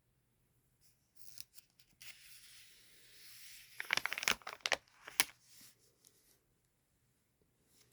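A paper sticker being peeled off its backing sheet: a smooth ripping hiss for about two seconds, then a quick run of sharp crackles as it comes free, trailing off into light paper rustling.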